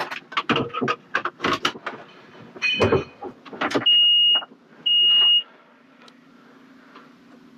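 Seat belt buckling and clicks and rattles in a John Deere 310K backhoe cab, then two half-second electronic beeps about a second apart from the machine's key-on warning, followed by a faint steady low hum.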